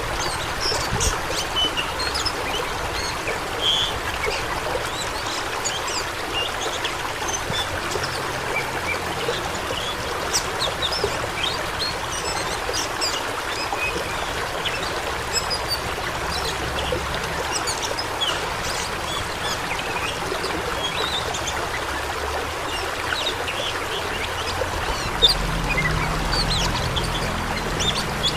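Rushing stream water pouring and splashing steadily, with many short bird chirps over it.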